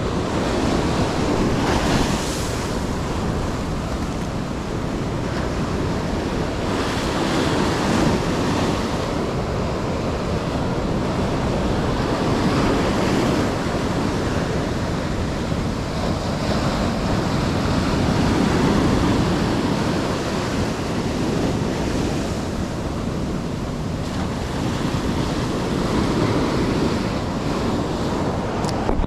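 Ocean surf breaking and washing on the shore, swelling and easing every few seconds, with wind buffeting the microphone.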